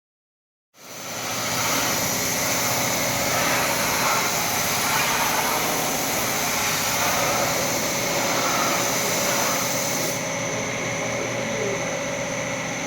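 Steady machine noise with a high whine, starting abruptly about a second in.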